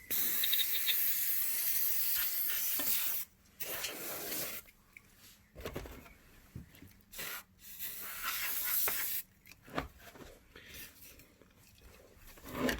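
Canned compressed-air duster blowing dust out of a PlayStation 4's vents and heatsink. It starts with one long hiss of about three seconds, followed by several shorter blasts with gaps between them, one about a second and a half long near the middle.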